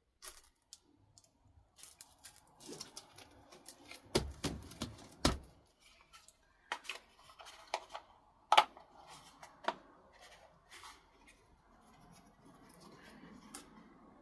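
Handling noises from the sander and its parts: scattered clicks and light taps, with two heavier knocks about four and five seconds in and a sharp click near the middle.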